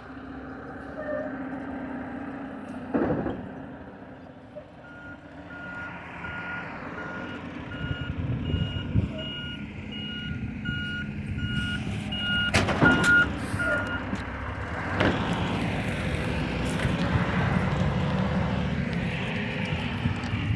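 Recycling truck backing up: its reverse alarm beeps at a steady pitch, a little faster than once a second, for about nine seconds over the running engine. A few loud bangs come through, one early on and a cluster near the end of the beeping.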